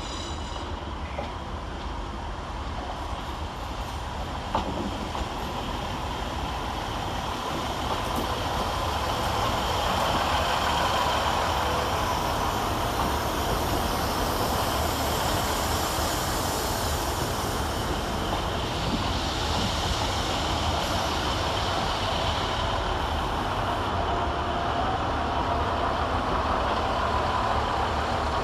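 Two coupled Class 150 Sprinter diesel multiple units running into the platform. The train noise grows louder over the first eight to ten seconds and then holds steady.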